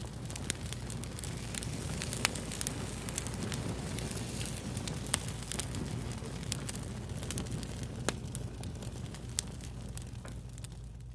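Wood fire crackling: a steady hiss with irregular sharp pops and snaps throughout, a few of them much louder than the rest.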